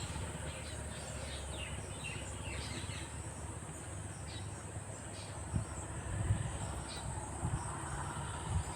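Rural outdoor ambience: a steady high-pitched insect drone, like crickets, with a run of short falling bird chirps in the first few seconds, and a few low thumps near the end.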